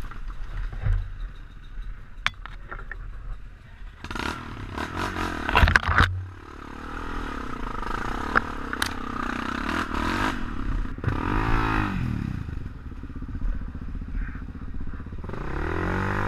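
Off-road motorcycle engines revving on a dirt trail, the pitch dipping and rising as the throttle is worked. A few seconds in comes a stretch of harsh scraping and clattering noise.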